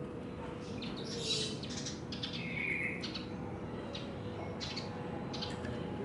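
Small birds chirping: scattered short, high chirps, busiest about a second in and again in the last two seconds, over a faint steady hum.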